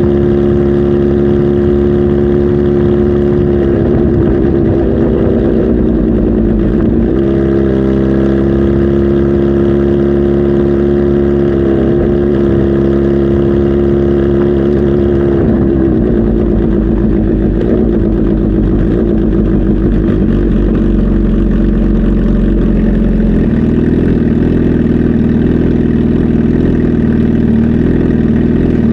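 Kawasaki Z H2 SE's supercharged inline-four engine running loudly. Its pitch holds steady for several seconds at a time and shifts up or down about five times.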